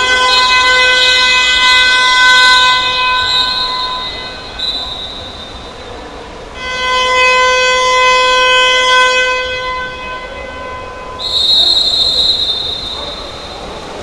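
A horn sounding in long, steady, loud blasts: one of about four seconds, a second of about three and a half seconds, then a shorter, higher-pitched one near the end.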